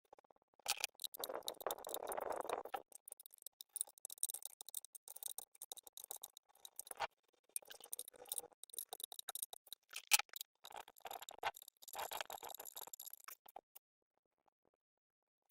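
Hand work on small parts: irregular clicks, taps and light rattles, with a brief rubbing or scraping sound lasting about two seconds near the start and another near the end.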